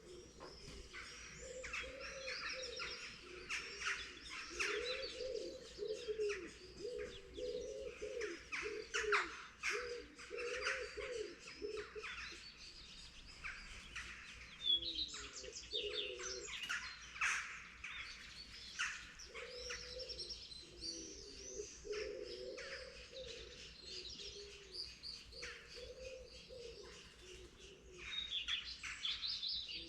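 Morning chorus of many songbirds, with busy overlapping chirps, trills and whistles throughout. Low, repeated cooing phrases, typical of a dove, run underneath for much of the time.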